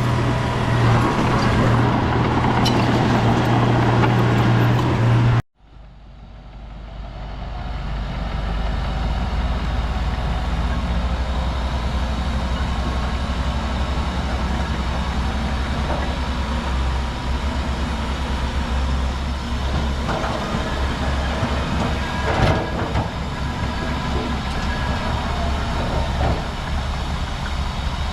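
Heavy earthmoving machine's diesel engine running with a steady hum. About five seconds in, the sound cuts off abruptly and a deeper engine rumble fades back in, with a few clanks later on.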